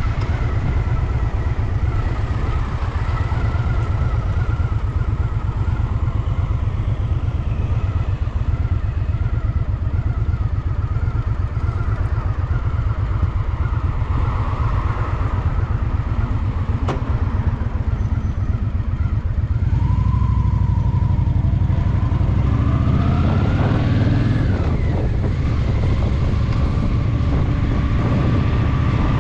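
Honda Shadow VT750's V-twin engine running steadily under way on a motorcycle ride. About two-thirds of the way through it gets louder and rises in pitch as it accelerates.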